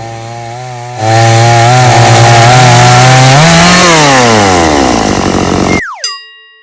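A loud, buzzing, motor-like drone that jumps louder about a second in, rises briefly, then winds down in pitch and cuts off suddenly, followed by a short falling whistle.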